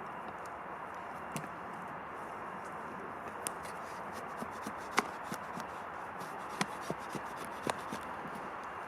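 Hand work on bark and wood: scattered light clicks, snaps and rubbing, the sharpest click about five seconds in, over a steady hiss.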